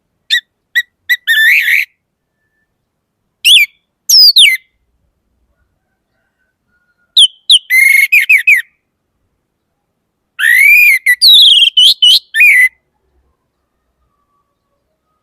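Orange-headed thrush (anis merah) singing: four loud phrases of quick, varied whistled notes that slide up and down in pitch, with a couple of seconds of silence between phrases.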